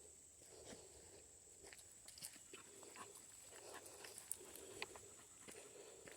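Near silence outdoors: faint footsteps on a trail, about one a second, with a few small clicks and a steady thin high-pitched whine behind them.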